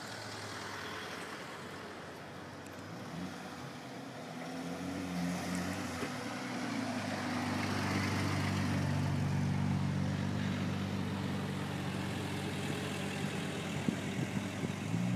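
AC Cobra's V8 running at low speed as the car rolls past, a deep, steady engine note that grows louder as it comes alongside about seven seconds in and eases off a little as it moves ahead.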